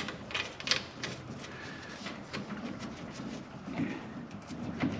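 Scattered light clicks and soft knocks of an A/C hose and its metal fittings being handled and fitted into place.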